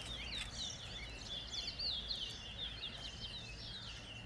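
Caged towa-towa seed finches singing: a fast, continuous string of short, high chirping notes.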